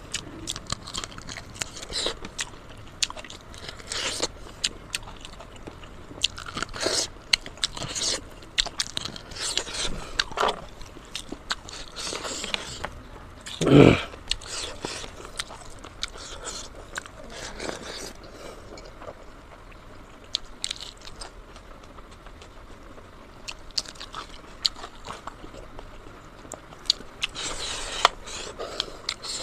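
Close-miked eating of pork leg and pork nose: repeated biting, crunching and chewing, with one louder thump about halfway through.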